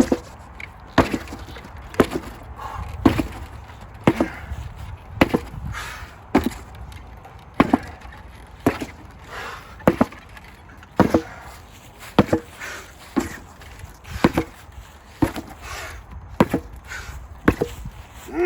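8 lb sledgehammer striking a target in steady repeated blows, about one a second.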